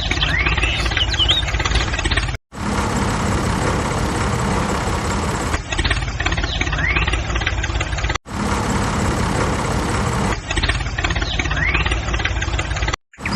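An engine running steadily, heard in several edited segments that each cut off abruptly, about two and a half, eight and thirteen seconds in. Faint bird chirps sound over it in places.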